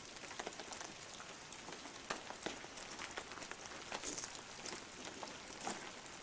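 Steady rain falling, with scattered drops ticking on the ground and stones.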